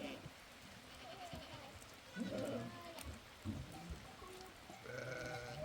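Sheep and goats bleating: a short bleat about two seconds in, and a longer one starting near the end.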